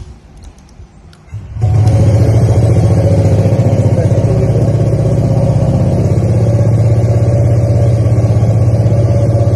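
Honda ADV160 scooter's single-cylinder engine starting about one and a half seconds in, then idling steadily. A few faint clicks come before it catches.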